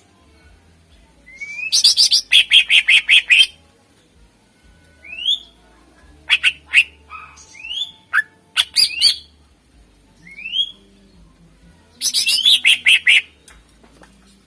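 Greater green leafbird (cucak ijo) singing in full voice: two loud runs of fast, rapidly repeated chattering notes, one near the start and one near the end. Between them come single rising whistles and sharp short calls.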